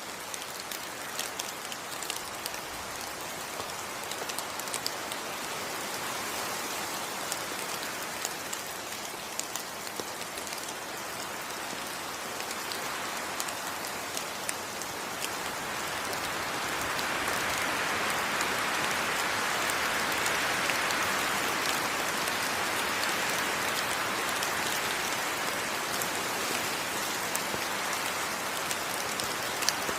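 Steady heavy rain falling on rainforest foliage, an even hiss dotted with individual drop ticks, swelling a little louder about halfway through.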